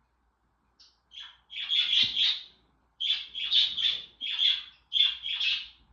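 Pet birds chirping in a series of short, high calls, starting about a second in and coming about twice a second in the second half.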